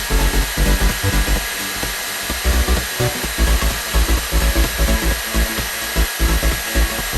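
A hair dryer blowing steadily, a constant hiss, under background music with a steady beat.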